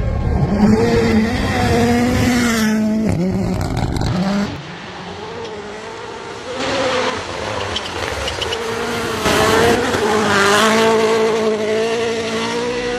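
Rally car engines at hard throttle, rising and falling in pitch through gear changes. A loud run in the first four seconds drops to a quieter spell, then another engine builds up again from about six and a half seconds in.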